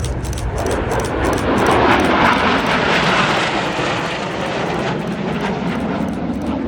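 Airplane engine noise of a fixed-wing aircraft flying past, swelling to its loudest about two to three seconds in and then fading.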